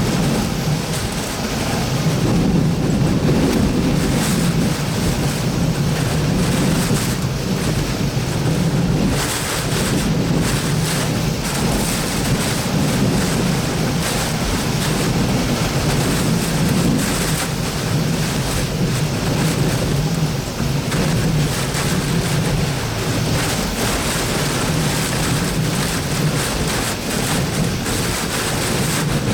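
Hurricane eyewall winds blowing hard and steadily, with gusts buffeting the microphone.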